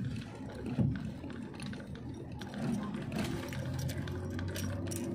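Vehicle engine running steadily with road noise, heard from inside the cabin while driving slowly, with a few short clicks in the second half.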